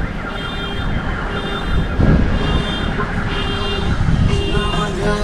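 A vehicle's reversing alarm at a road-paving site beeping steadily, about once a second, over the rumble of engines and passing traffic.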